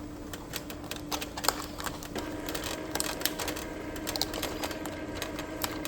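Irregular light clicks and taps of small plastic printer parts being handled, over a steady low hum.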